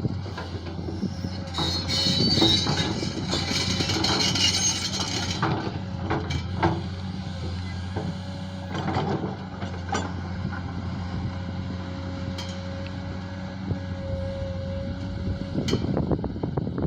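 JCB backhoe's diesel engine running steadily under a constant whine, with a louder rush of scraping noise about two to five seconds in and scattered knocks and clanks as it digs.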